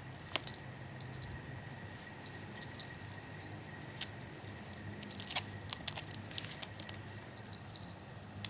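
Light metallic jingling and clicking that comes and goes in short irregular bursts, over a faint steady high tone.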